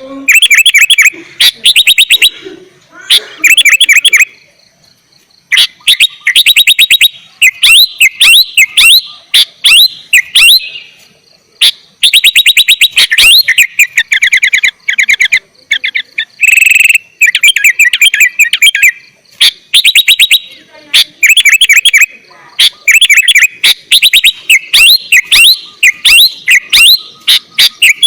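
Sooty-headed bulbul (kutilang) singing loudly in repeated bursts of rapid chattering notes with short pauses between them, and one longer held note about two-thirds of the way through.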